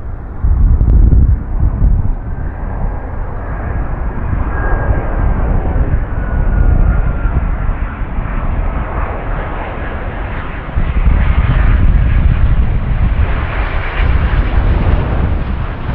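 Large jet airliner flying low overhead on its landing approach: a loud, steady engine rumble with a faint whine that slides slowly down in pitch, swelling louder about half a second in and again around eleven seconds.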